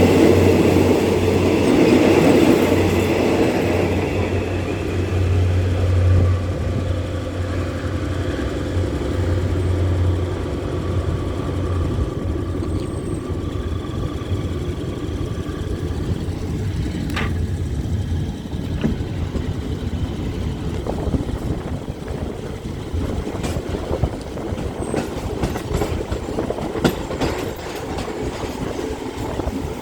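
Alsthom diesel locomotive running past, its engine drone loud at first and fading away over about ten seconds, followed by the rumble of the train's coaches rolling by with scattered clicks from the wheels.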